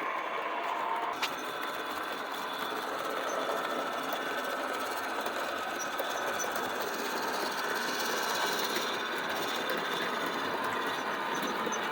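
O scale model steam locomotive running on its track with a steady whir from its electric motor and gear reduction and the rolling of wheels on rail, with a single click about a second in.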